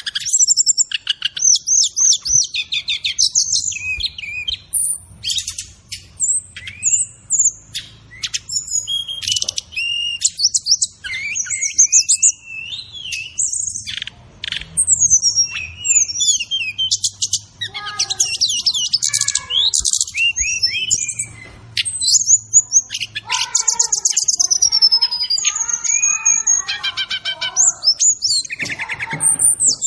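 Brown-chested jungle flycatcher (SRDC) song with fill-in phrases: a non-stop run of quick, varied chirps, high whistles, sweeping notes and fast trills.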